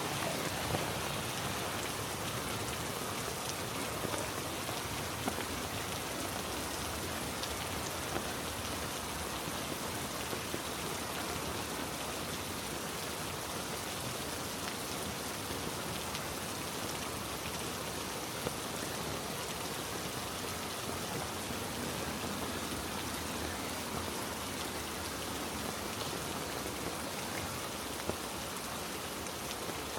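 Heavy rain falling steadily on rainforest foliage, with a few sharper single drops standing out now and then.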